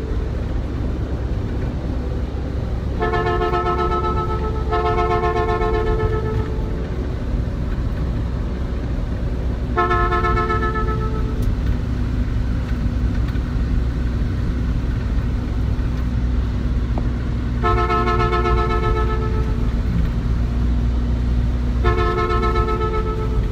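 Vehicle horn sounding in five long blasts, two of them back to back near the start and the others spread out, over a steady low engine and road rumble.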